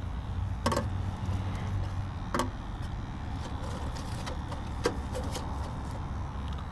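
Steady low hum of a running natural-gas furnace, with a few sharp clicks and knocks about a second in, near the middle and past halfway.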